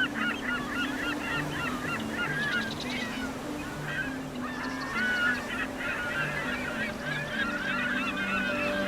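Soft ambient music with low held notes, under a dense, continuous chatter of short, warbling high-pitched calls.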